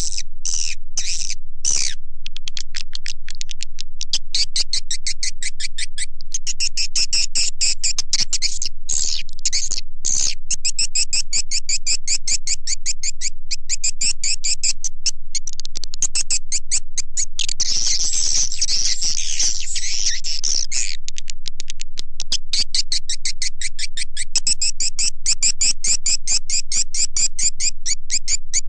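Swiftlet lure call recording of edible-nest swiftlet chirps and twitters, the kind played from swiftlet houses to draw the birds in to roost and nest. It is a dense, rapid, high-pitched chirping that never pauses and grows thicker for a few seconds past the middle.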